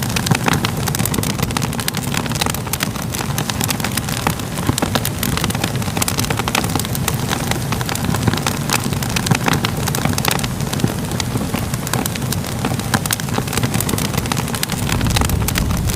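Crackling fire: a steady low rumble of burning with frequent, irregular sharp crackles and pops throughout. The low rumble grows a little louder near the end.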